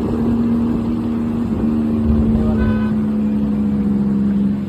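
Car engine running at a steady speed over road and wind rumble, a constant drone. A brief higher-pitched sound comes about halfway through.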